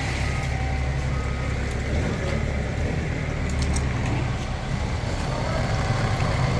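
Heavy diesel engine running steadily, a low, even hum with no change in speed.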